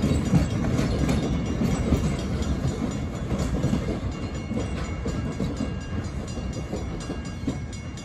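Puffing Billy narrow-gauge steam train's carriages rolling away over the rails and points, the wheels clicking on the rail joints. The sound fades steadily as the train draws off.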